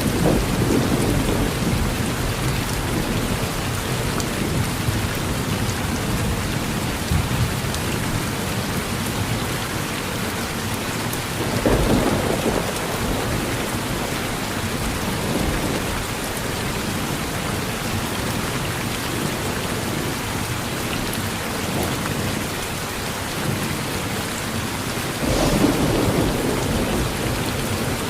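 Steady rain with rolling thunder; low rumbles swell up about twelve seconds in and again near the end.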